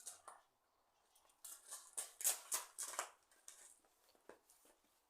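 A quick run of short, scratchy scraping strokes, about six of them close together between one and a half and three and a half seconds in, then a couple of faint ticks.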